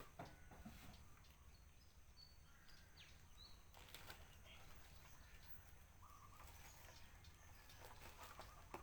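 Near silence: faint background with a few short, high bird chirps and scattered light clicks over a low steady hum.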